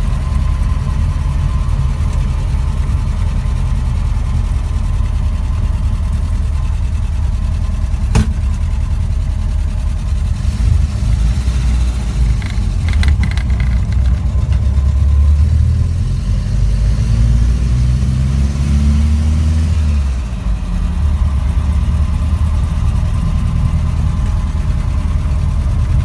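1948 Willys truck engine running, heard from inside the cab, with a steady low drone. Past the middle the engine speed rises for a few seconds, then drops suddenly. There is one sharp click about eight seconds in.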